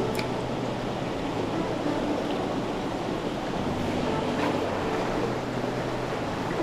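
Steady rush of flowing mountain-stream water.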